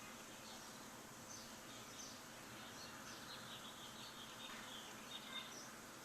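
Birds chirping faintly, many short high chirps scattered irregularly, over a steady background hiss of ambient noise.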